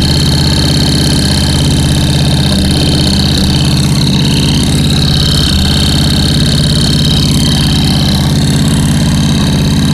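An engine idling steadily, with a constant high-pitched whine over the low engine note.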